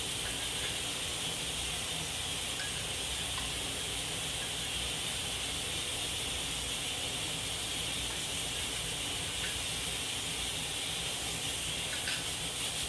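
A steady, even hiss, with a few faint clicks.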